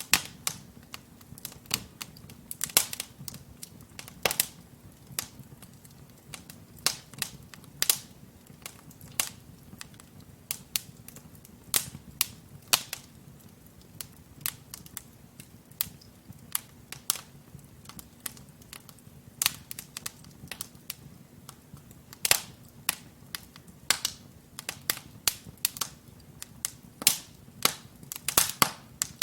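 Wood fire burning in a fireplace: logs crackling with irregular sharp pops and snaps, several a second at times, over a soft low rush of flame.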